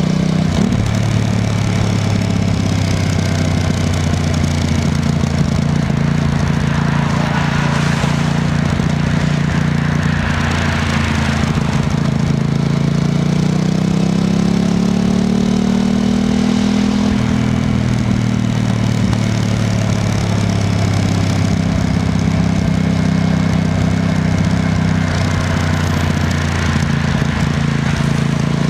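Aprilia RS660 Extrema's parallel-twin engine running at low, fairly steady revs, its pitch rising a little about halfway through and settling back down. A brief rushing noise passes over it between about seven and twelve seconds in.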